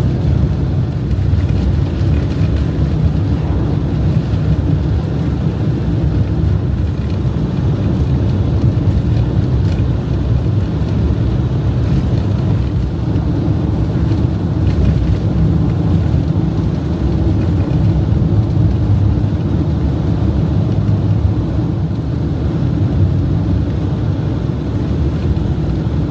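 Camper van driving on a snowy road, heard from inside the cabin: a steady low rumble of engine and winter tyres.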